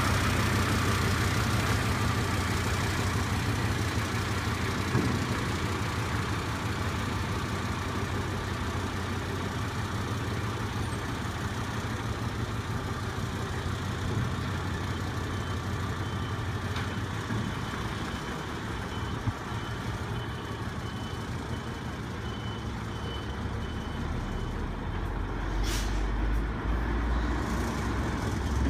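Isuzu concrete mixer truck's diesel engine running steadily, its low hum shifting lower near the end.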